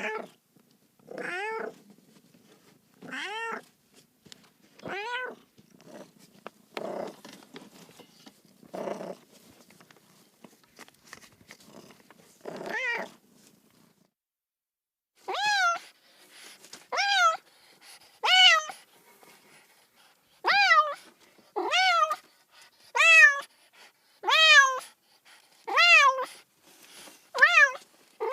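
Domestic cat meowing over and over. In the first half the meows are lower and rougher, about one every two seconds. After a brief silence comes a run of clearer, higher-pitched meows, more closely spaced.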